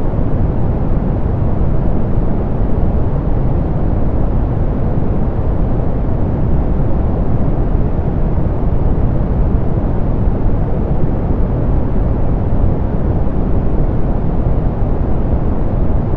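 Steady synthetic pink noise, softened so that it sits mostly low and fades out toward the top, with no changes.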